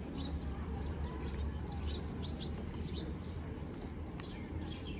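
Small birds chirping, short high chirps several times a second, over a steady low rumble.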